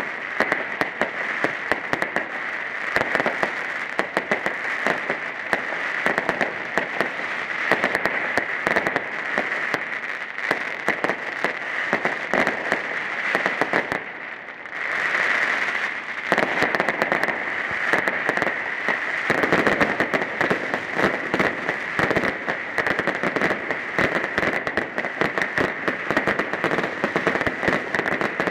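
Fireworks going off in a dense, rapid crackle of bangs and pops. About halfway through there is a brief lull, then a hiss.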